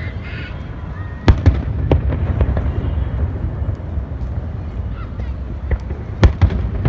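Fireworks bursting: two sharp, loud bangs, about a second in and again near the end, with smaller pops and crackles between them over a steady low rumble.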